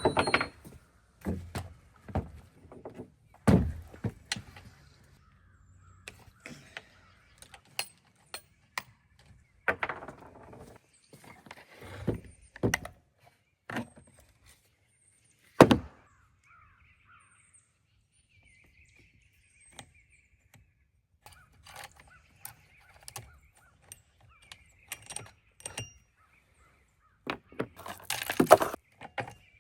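Split firewood being handled and stacked: irregular wooden knocks and thunks, the loudest just before 4 s, near 16 s and around 28 s. Crows caw faintly in the quieter middle stretch.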